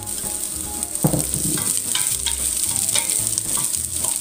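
Chopped garlic and onion sizzling in hot cooking oil in a stainless steel pot, sautéed until lightly browned. A wooden spatula stirs them, scraping and knocking against the pot.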